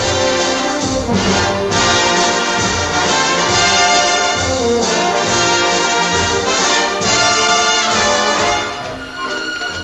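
Orchestra playing a loud instrumental passage with brass to the fore, trombones and trumpets prominent; it drops in level near the end.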